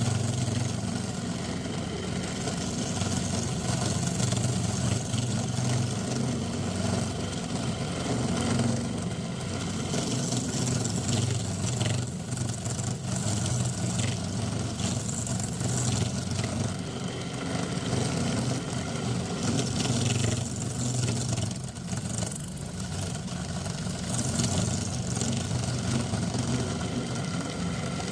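Steady low motor hum of running woodshop machinery, with a fainter hiss over it that swells and eases slightly.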